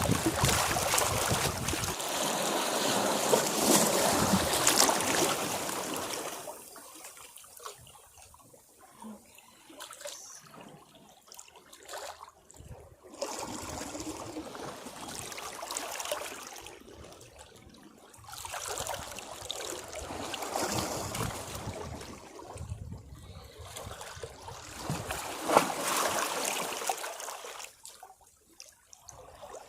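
Sea waves breaking on rocks and washing back in repeated surges: a long loud wash over the first six seconds, then quieter swells rising and falling every few seconds.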